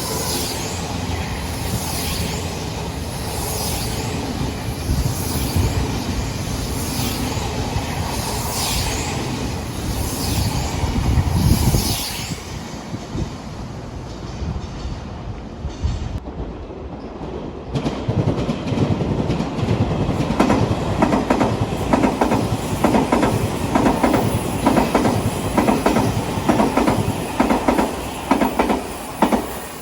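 Odakyu Line electric commuter trains passing close by, wheels clattering over the rail joints. The sound drops about twelve seconds in. A second loud, clattering passage starts about six seconds later and cuts off just before the end.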